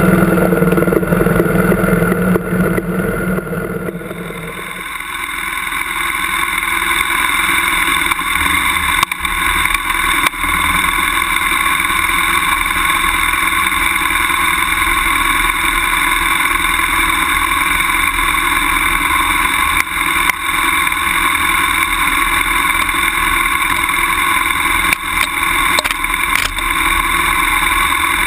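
BMW F800GS parallel-twin motorcycle engine running as the bike rides over a grassy slope. About four seconds in, the low rumble drops away and a steadier, higher drone takes over.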